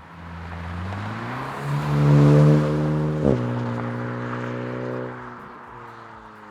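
Hyundai Elantra N-Line 1.6-litre turbo four-cylinder running through an MBRP dual rear-exit axle-back exhaust, accelerating with rising pitch. It is loudest about two seconds in, breaks sharply a little after three seconds as on an upshift, holds steady for a couple of seconds, then fades.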